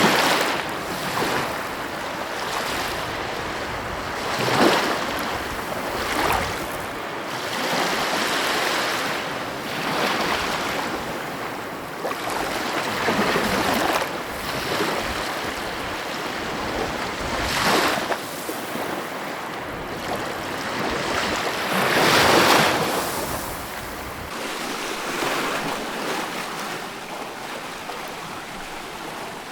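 Ocean waves breaking and washing on the shore, swelling in surges every few seconds; the biggest break comes about two-thirds of the way through.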